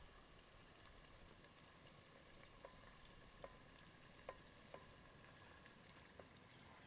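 Near silence: faint outdoor hiss with a handful of soft, sharp ticks spread through the middle seconds.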